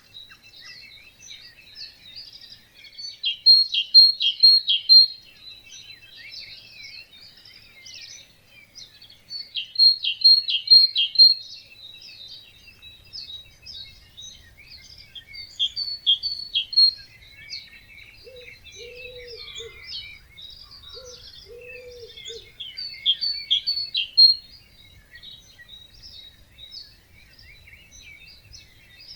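Birds singing in a dawn chorus at a wetland: many overlapping high chirps and trills, with one loud song phrase repeated about four times. Two short, lower-pitched calls come a couple of seconds apart near the middle.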